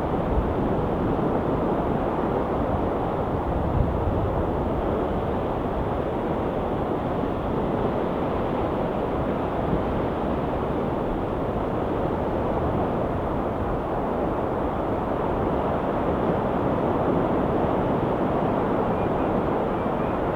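Ocean surf on a rocky shore: a steady, even rush of waves with no single break standing out.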